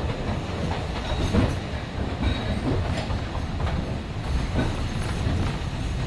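Alishan Forest Railway narrow-gauge train running, heard from inside the carriage: a steady low rumble with wheels knocking over rail joints and a few brief, faint wheel squeals.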